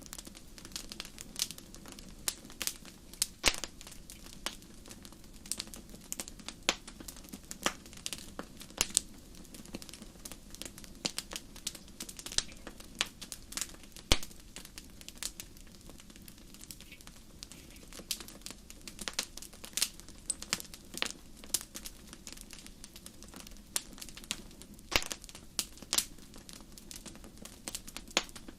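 Wood fire crackling, with irregular sharp snaps and pops, several a second, over a low steady rumble.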